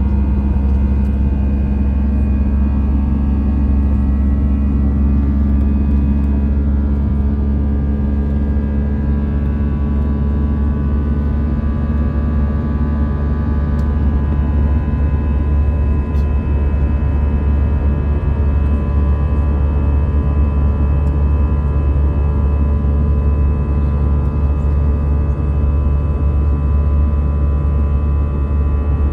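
Airbus A319 jet cabin noise in flight: a steady low rumble of the engines and airflow with several steady engine tones over it, unchanging throughout.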